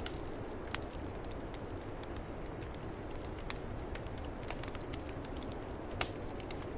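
Wood fire crackling in a fireplace, with scattered sharp pops and one louder pop about six seconds in, over the steady rush of a snowstorm's wind.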